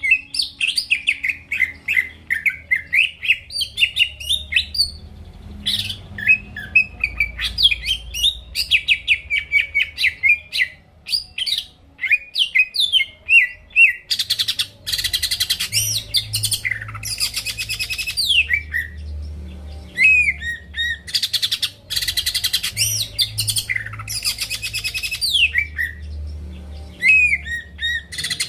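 Green leafbird (cucak ijo) in full song. For the first half it gives a fast, unbroken stream of varied chirps and sweeping whistles. From about halfway, loud rasping, buzzy phrases alternate with sharp down-slurred whistles.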